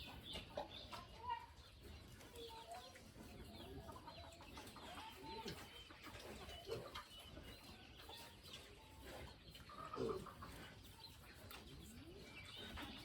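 Faint farmyard ambience: chickens clucking off and on, with small birds chirping.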